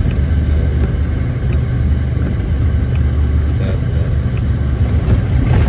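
Off-highway logging truck's diesel engine running steadily under way, a deep low rumble heard from inside the cab.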